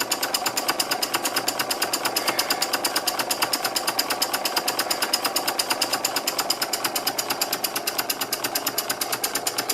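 Stuart No.8 model mill engine running steadily on compressed air from a small compressor, giving a fast, even chuffing of about ten beats a second.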